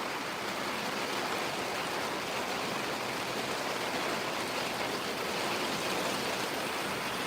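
Steady hiss of rain falling, an even noise with no breaks or single drops standing out.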